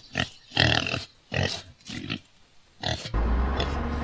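Farm-animal sound effects, chiefly pig grunts: about five short grunts and squeals. About three seconds in, a steady low rumble sets in.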